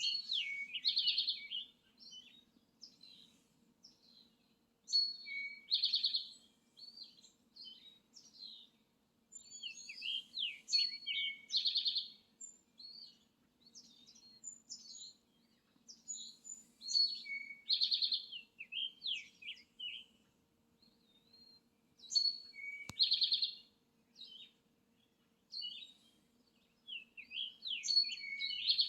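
A songbird singing the same short, high-pitched phrase over and over, about every six seconds. Each phrase is a quick run of chirps and slurred whistles with a buzzy note in the middle.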